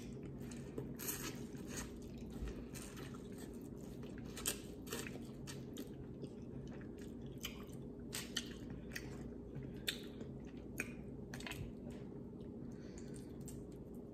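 Close mouth sounds of eating boiled corn on the cob: chewing and biting, heard as a string of short, irregular wet smacks and crunches, over a faint steady hum.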